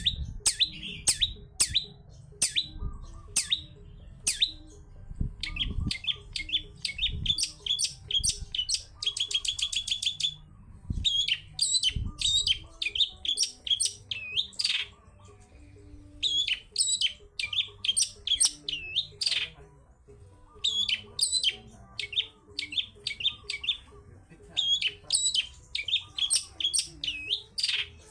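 Long-tailed shrike (cendet) singing a fast, chattering song of sharp, varied notes and rapid trills, broken by short pauses.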